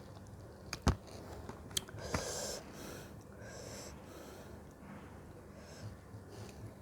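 Close-miked mouth sounds while eating fruit: two sharp mouth clicks early on, then a few soft breaths through the nose between chews.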